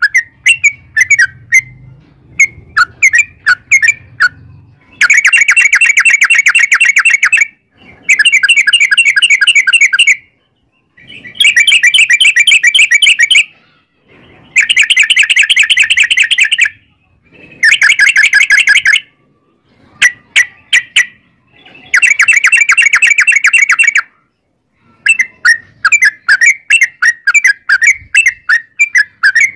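Yellow-vented bulbul (trucukan) song. Short chirping notes at first, then about six long, very rapid trills ('ropel') of around two seconds each with short pauses between, then back to quick chirps near the end.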